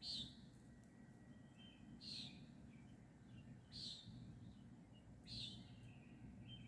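A bird chirping faintly: a short, high chirp repeated four times, about every second and a half to two seconds, over a low steady background hum.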